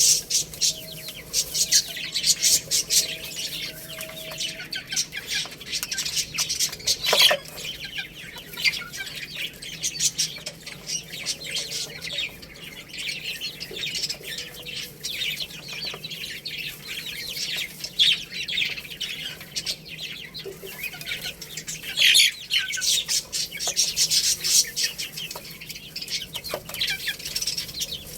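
Baby chicks peeping steadily, many high-pitched chirps overlapping one another.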